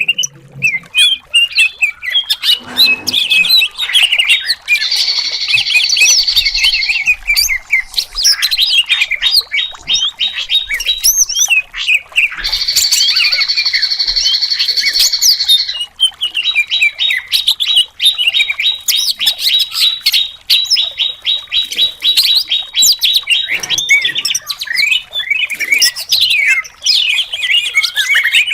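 Cucak cungkok singing a long, loud, varied song packed with rapid chirps and whistled phrases, broken twice by harsh rattling trills and followed by a long run of fast repeated notes.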